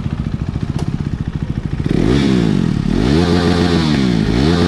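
Superbike engine idling with a fast steady pulse, then revved repeatedly from about two seconds in, its pitch rising and falling with each blip of the throttle.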